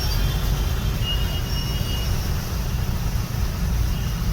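Road traffic rumbling steadily, with a faint high-pitched squeal about a second in.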